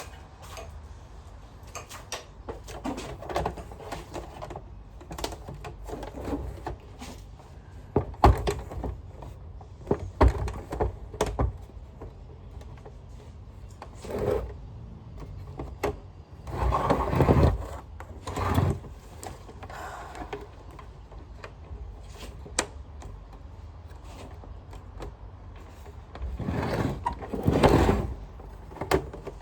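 Hands working on plastic vacuum cleaner parts while refitting the bag: scattered clicks, knocks and rustling, with louder stretches of clattering about halfway through and again near the end.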